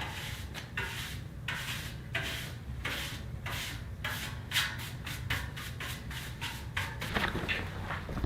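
Repeated hand scraping strokes on the cut steel wires of a wire basket, roughly three strokes a second, trimming and cleaning up the wire ends.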